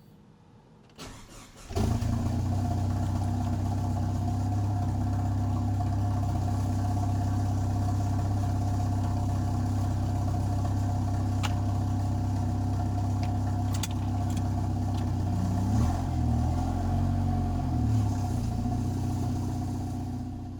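Jeep Cherokee XJ engine starting about two seconds in, then running steadily. Its revs rise and fall briefly near the end.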